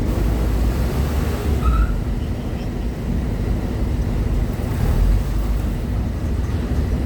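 Steady low rumble of heavy vehicle and ship engines running at a ferry loading ramp.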